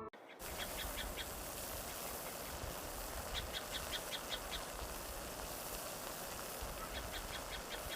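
Outdoor nature ambience: a steady hiss, with a bird calling three times in quick series of short, high notes.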